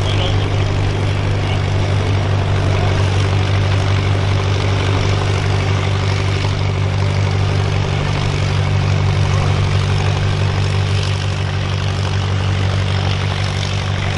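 A tractor engine running loud and steady at one constant pitch, with no revving, as it pulls a weight-transfer sled down the track.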